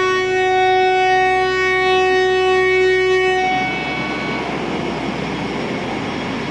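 Train horn sounding one long, steady blast that stops about three and a half seconds in, followed by the rumble of the train running on the track.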